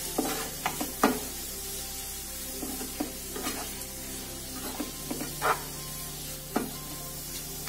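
Grated bottle gourd sautéing in ghee in a non-stick pan with a steady sizzle, stirred continuously with a wooden spatula that scrapes and knocks against the pan at irregular moments.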